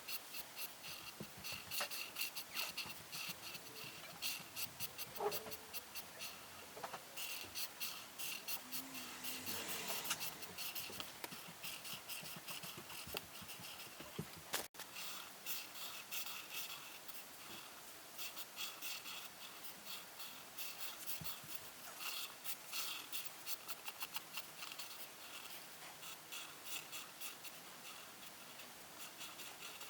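A colouring tool scratching across paper in quick back-and-forth strokes as a drawing is coloured in, coming in runs with short pauses.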